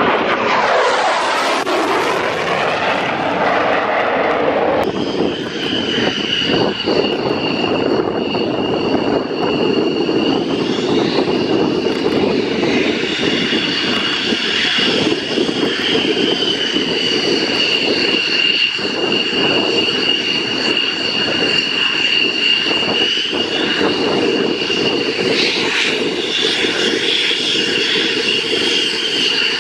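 Fixed-wing aircraft engine noise, loud: a broad rushing sound for the first few seconds, then a steady high whine over a rumbling roar.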